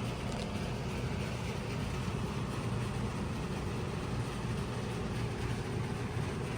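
Steady indoor background noise: a low hum under an even hiss, with no distinct events.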